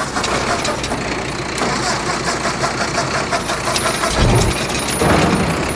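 A vehicle engine running, with a short low thump about four seconds in.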